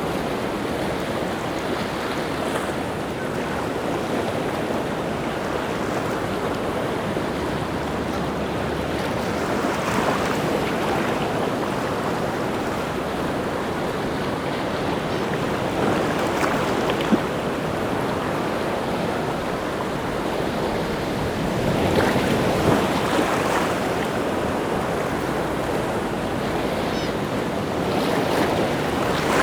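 Rough sea surf: a continuous wash of breaking waves that swells as each breaker comes in, about every six seconds, with wind.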